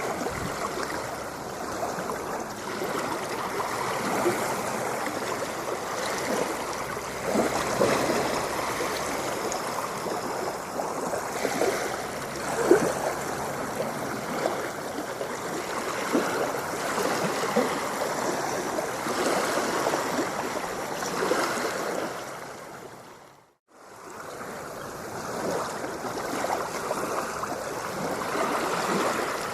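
Continuous running, splashing water with many small gurgles and splashes, used as a sleep recording. It fades briefly to silence about 23 seconds in, then fades back in.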